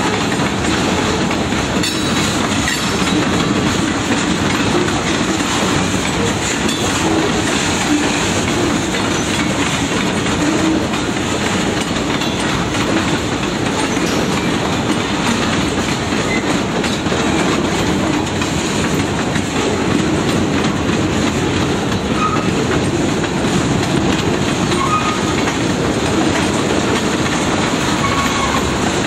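Freight train cars rolling past on the rails: a steady, loud noise of wheels on track that holds even throughout.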